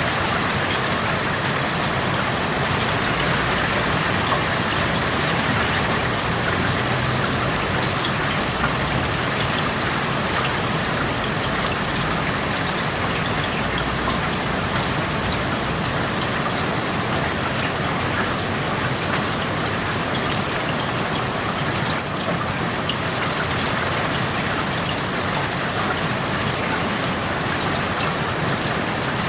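Steady rain falling, heard through an open window, with a dense patter of drops on surfaces outside.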